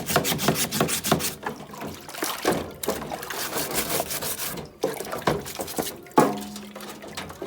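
Wet scrubbing on a washing machine: a brush rubbed back and forth over a wet, soapy surface in quick, irregular strokes, with some liquid sloshing.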